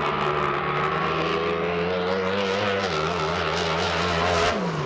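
Drag boat's racing engine running at high revs, holding a steady pitch, with the sound breaking off suddenly near the end.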